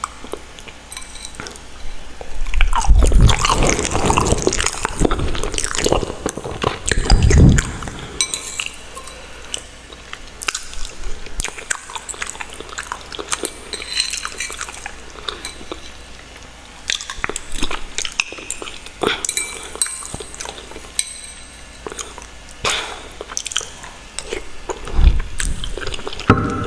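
Close-miked eating: chewing and wet mouth sounds with many small clicks and smacks, busiest between about three and eight seconds in and again near the end.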